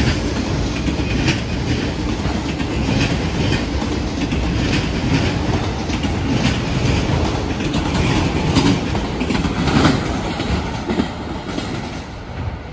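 Freight train of autorack cars rolling past with a steady rumble, the wheels clacking over rail joints about once a second. The sound fades near the end as the last cars move away.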